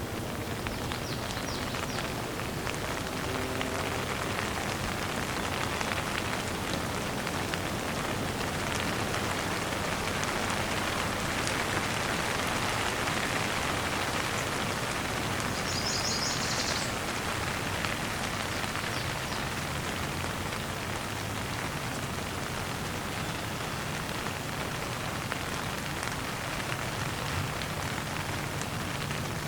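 Steady rain falling and pattering on surfaces, a dense, even hiss of drops. A brief high-pitched sound comes about halfway through.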